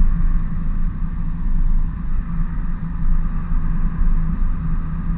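Ford F-350 work truck driving, its engine and road noise a steady low rumble heard from inside the cab.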